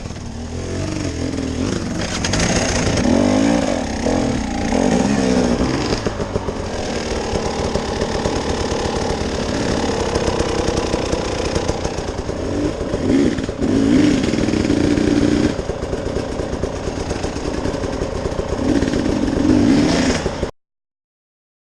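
Off-road vehicle engine running and revving up and down repeatedly under load, with clatter and rumble from the drive over rough ground. The sound cuts off abruptly about a second before the end.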